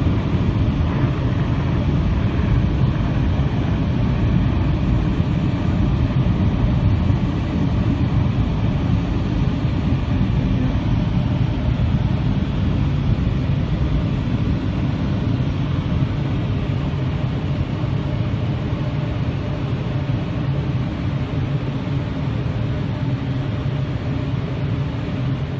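Futura Revolution touch-free car wash running, heard from inside the car: a loud, steady rumbling rush of its jets or blowers on the car body, easing slightly near the end.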